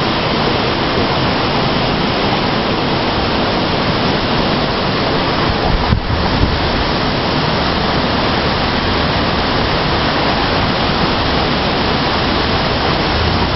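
Strong storm wind, a steady loud rushing noise that fills the microphone, with a short knock about six seconds in.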